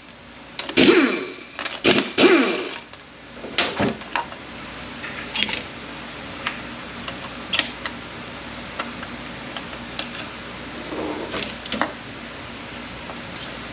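Bench work on an A650E automatic transmission: 10 mm bolts being taken out of the park pawl bracket, with a few short loud bursts of tool noise in the first couple of seconds, then scattered light metallic clicks and clinks as the small parts are handled.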